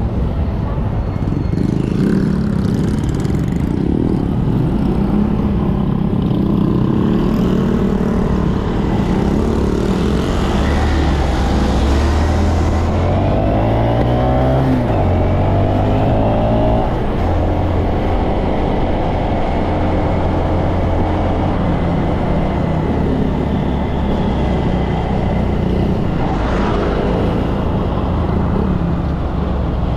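Honda Monkey 125 single-cylinder motorcycle engines running on the road under a steady rush of noise. Engine pitch climbs and drops back between about ten and seventeen seconds in.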